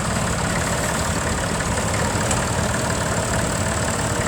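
Vintage tractor engine running at a steady, even tickover, its low note unchanging.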